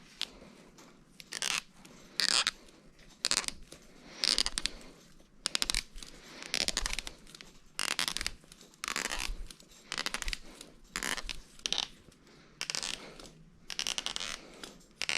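Repeated short rasping scrapes, about one a second, each with a fine rattling grain.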